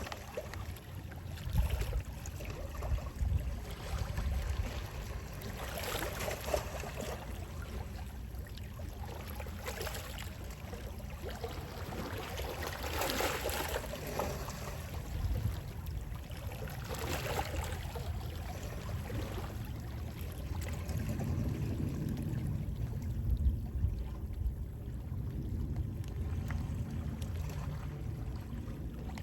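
Small sea waves washing in and drawing back, swelling every few seconds, over a steady low rumble of sea wind.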